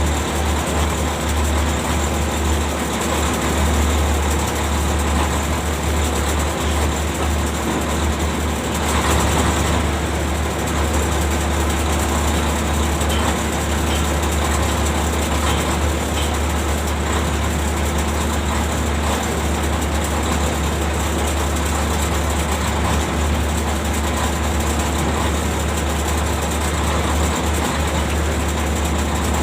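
Ship's deck machinery running steadily, as when heaving up the anchor: a constant heavy low hum with a steady drone above it and no let-up.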